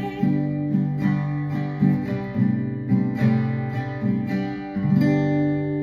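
Acoustic guitar playing an even pattern of plucked chords, with a last chord struck about five seconds in and left ringing.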